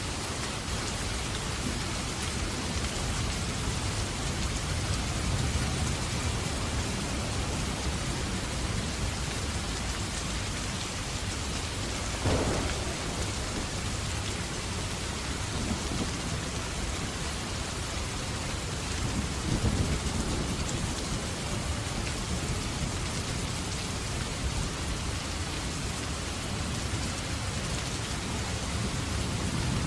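Steady rain with low rolls of thunder, about two-thirds of the way through and again at the end. A single sharp pop comes a little before halfway.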